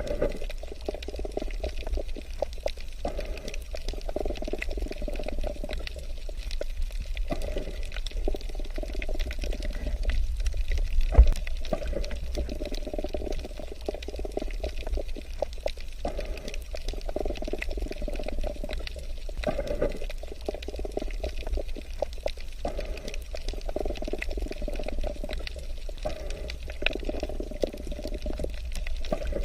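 Breathing underwater: exhaled air bubbles out in bursts of a couple of seconds, repeating about every three seconds, over a steady low underwater rumble. A single sharp thump comes about a third of the way in.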